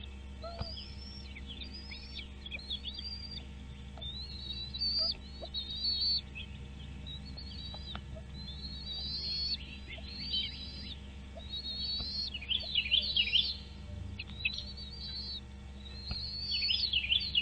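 Nestling birds cheeping in a nest: a run of short, high chirps that come thicker and louder about two-thirds through and again near the end, over a steady low hum.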